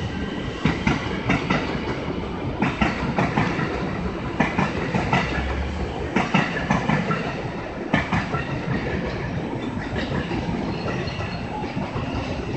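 A JR West 103 series electric train pulls out of the station and rolls past with a steady rumble. Its wheels clack over the rail joints in repeated clusters as each car's bogies pass.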